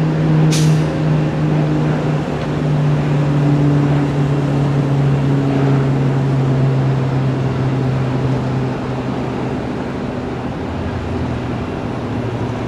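Beechcraft King Air's twin turboprops running at departure power, a steady propeller drone whose pitch slides gradually lower as the aircraft passes. A sharp click about half a second in.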